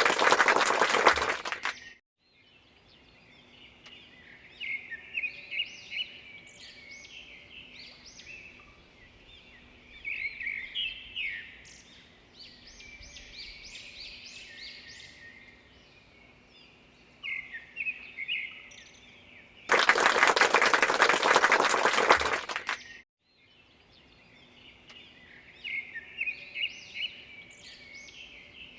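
Small birds chirping and twittering on and off. A loud rushing burst of noise ends about two seconds in, and another lasts about three seconds past the middle.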